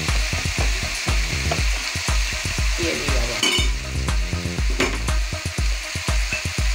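Wooden pestle pounding in a ceramic mortar, crushing toasted bread, garlic and lamb liver, in dull regular thumps about two a second. Under it runs a steady sizzle of frying.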